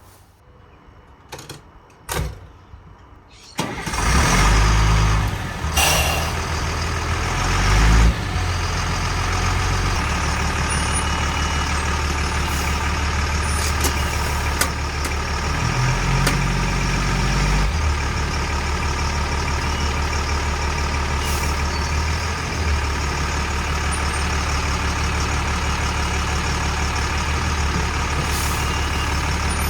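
FMTV military truck's diesel engine starting up about four seconds in, after a few sharp clicks, then running steadily with a low, even note.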